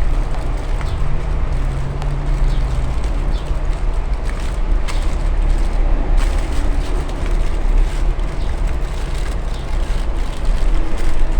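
Aluminium foil crinkling in short bursts as it is wrapped tightly around a whole chicken, over a steady low rumble.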